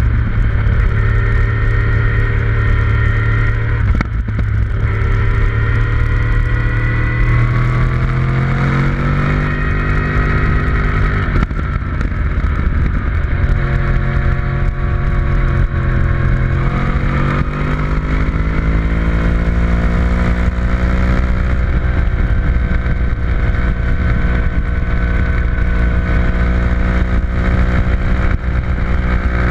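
A vehicle's engine heard onboard during a track lap, running hard with a steady rush of noise underneath. Its note climbs slowly twice under acceleration, with a sudden drop between the two climbs, and otherwise holds fairly level.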